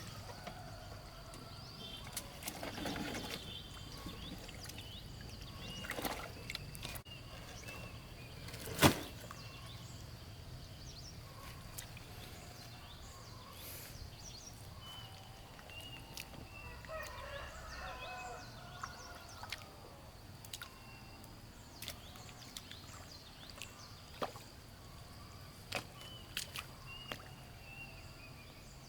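Quiet outdoor ambience: scattered bird chirps and a steady high thin tone, broken by occasional small clicks and knocks, with one sharp knock about nine seconds in.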